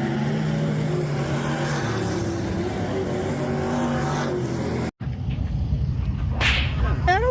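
Dirt-track race cars running laps, their engines droning with a pitch that rises and falls. About five seconds in the sound cuts off abruptly, and a lower steady engine rumble follows.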